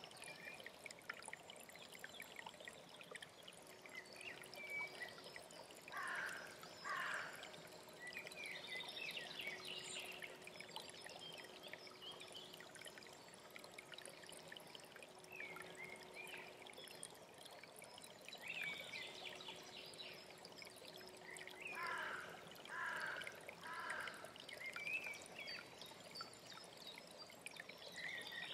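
Mountain stream running steadily, with songbirds singing over it. A bird gives two short downward-sliding notes about six seconds in and three more later on, among scattered higher chirps.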